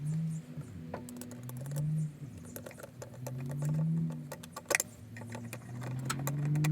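2004 Ford Mustang GT's 4.6-litre V8, fitted with a cold air intake, revved in four short blips, its pitch rising and falling each time. Light clicks and jingles sound between the revs.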